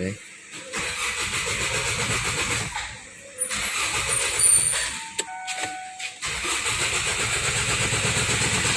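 Starter cranking the 2004 Kia Sorento's diesel engine in three attempts with short pauses between them, a pulsing churn each time. It is a test of the customer's hard-starting complaint.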